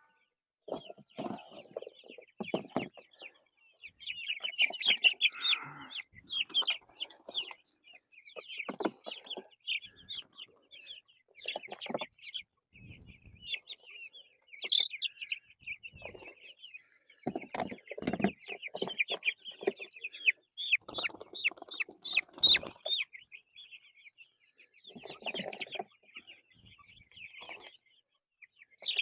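A flock of young Cornish Cross meat chickens peeping and chirping continuously, with irregular thumps and rustling of handling in between.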